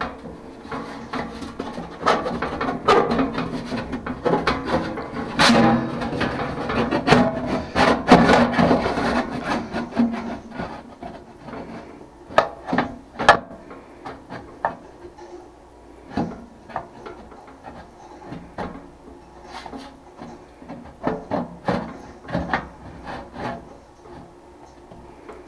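Handling noise from working on a heating and air unit: rubbing, scraping and knocks, busy for about the first ten seconds, then scattered clicks and taps.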